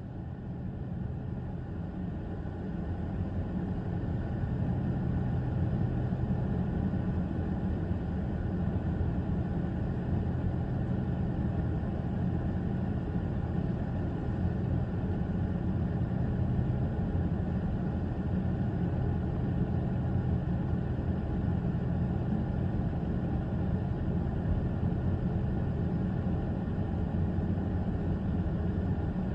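Low steady rumble of an Alaska Railroad freight train of Difco dump cars rolling slowly across a road crossing, heard from inside a stopped car. It swells over the first few seconds, then holds steady.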